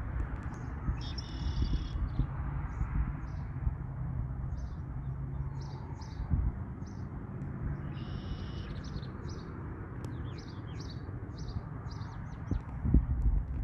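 Songbirds chirping: many short high chirps all through, with two longer trills, one near the start and one past the middle. Under them a steady low rumbling noise, louder, with a bump near the end.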